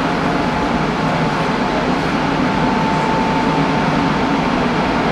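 Hanshin Railway local train running between stations, heard from inside the leading car: a steady rumble of wheels on the rails with a thin, steady motor whine that becomes clearer about halfway through.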